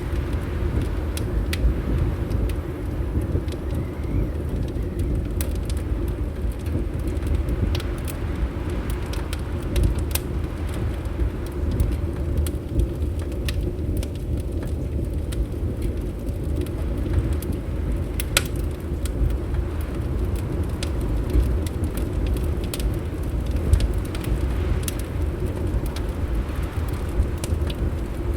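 Fireplace fire crackling, with scattered sharp pops, over a steady low rumble of wind.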